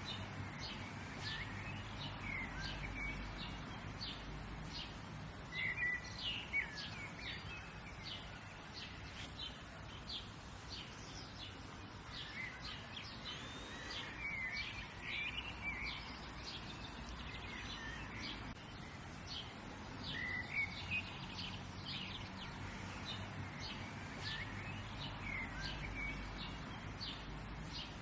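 Songbirds chirping and calling in a steady stream of short high notes, with livelier clusters of calls every few seconds, over a steady low background noise.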